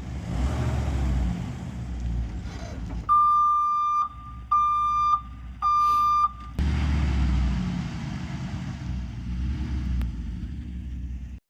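Steady low rumble of wind and traffic, broken in the middle by three long electronic beeps, each about a second long with short gaps between them, like a vehicle's warning beeper.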